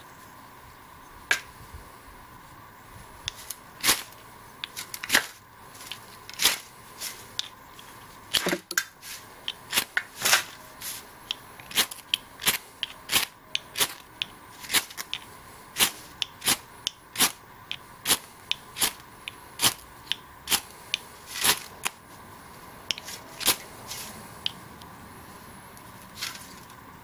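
Ferro rod struck over and over with a striker, dozens of quick rasping scrapes about one or two a second, thinning out near the end, showering sparks into a bird's-nest tinder bundle that is not catching.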